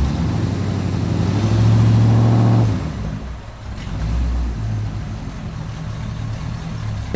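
Tractor engine running, swelling to a loud, steady rev from about one to three seconds in, then dropping back to a lower, uneven idle.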